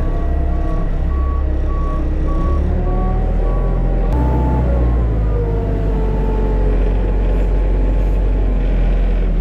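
A vehicle backup alarm beeps about twice a second over the steady rumble of a heavy engine running. The beeping stops about four seconds in, and the engine keeps running.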